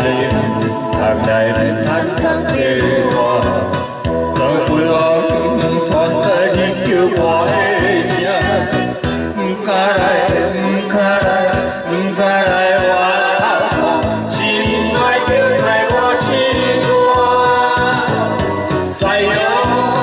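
Several voices singing together in a group sing-along over a karaoke backing track with a steady beat.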